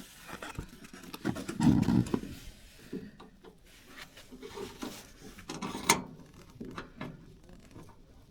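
Irregular clicks, knocks and rattles of hand tools and metal fittings being handled, with a heavier knock about two seconds in and a sharp metallic click near six seconds.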